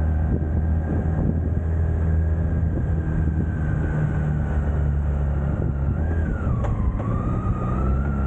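BMW K1600 GTL's 1,649 cc inline-six engine running steadily under way, its note dipping and recovering about six seconds in. A single sharp click comes shortly after the dip.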